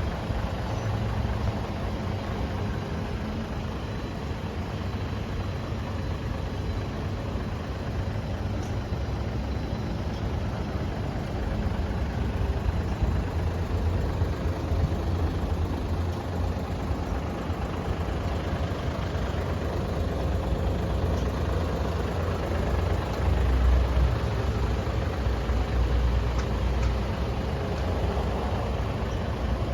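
Fuso Super Great tractor head's diesel engine idling steadily, a little louder about twelve seconds in and again around twenty-four seconds in.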